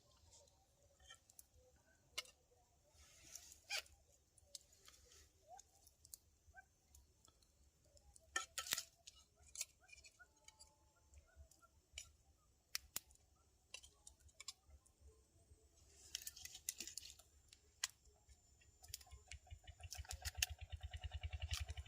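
Quiet scattered clicks, taps and short rustles of small handling noises over a faint low rumble; near the end a fast low throbbing sets in.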